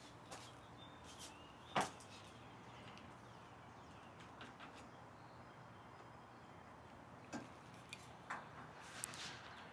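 Scattered light clicks and knocks of parts and tools being handled while an elliptical machine is put together, with one sharper knock about two seconds in and a run of smaller clicks near the end.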